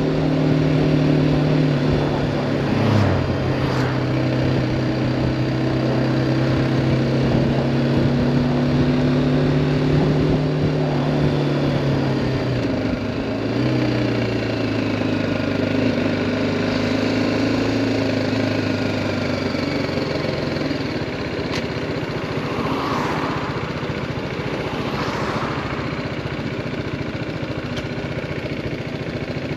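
BMW G310R's single-cylinder engine running at a steady pace. Its note drops about 3 s in and again about 13 s in as the bike slows, then settles into a low, even running sound like idling in traffic for the last third.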